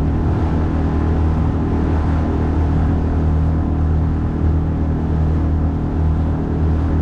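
9.8 hp outboard motor running steadily near full throttle on a small boat, a constant low drone, with the rush of water and wind mixed in.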